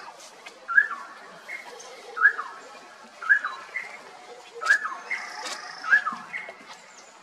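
A bird repeating a short, hooked whistled note five times, about once every second and a bit, with fainter chirps from other birds.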